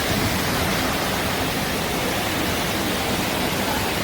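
Steady rush of water at a waterfall, an even, unbroken hiss with no change in level.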